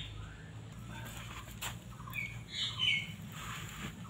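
Birds chirping in a series of short calls over a low steady hum, with one light click about one and a half seconds in.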